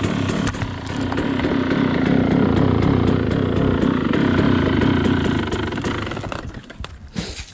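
KTM dirt bike engine running steadily, then dying away about six seconds in, with a short rush of noise near the end.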